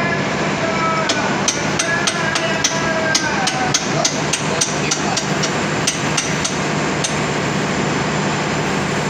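Hammer blows on metal in a quick, irregular run of about three or four strikes a second, stopping about seven seconds in, over a steady hum of running machinery.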